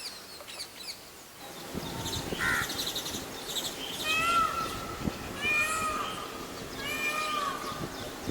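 Animal calls: a few thin, high chips in the first second, then a series of four loud, arching pitched calls about a second and a half apart.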